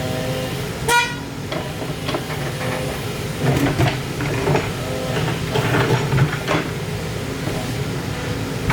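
Excavator's diesel engine running steadily, with a short horn-like toot about a second in and several knocks and clanks in the middle.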